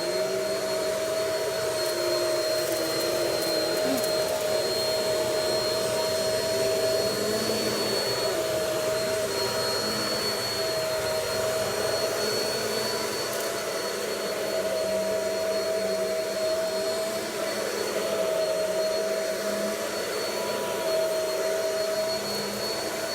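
Vacuum cleaner running steadily over carpet, a continuous motor whine that wavers slightly in pitch as it is pushed back and forth.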